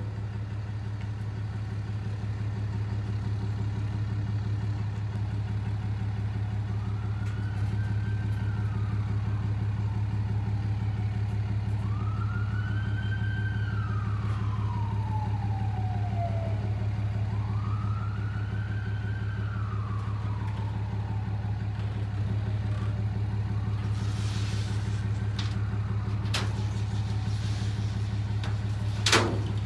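Vehicle engine idling steadily with an even low hum. A siren wails in the distance through the middle, rising and falling several times, and there is one sharp knock near the end.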